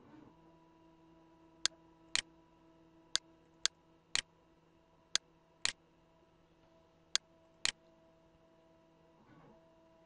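Computer mouse button clicking nine times, mostly in pairs about half a second apart, over a faint steady electrical hum.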